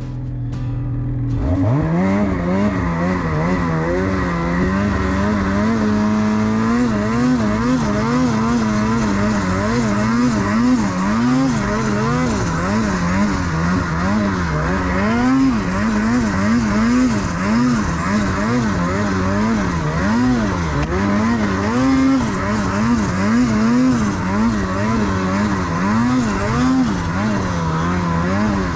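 Snowmobile engine running hard under changing throttle, starting about a second and a half in, its pitch rising and falling about once a second.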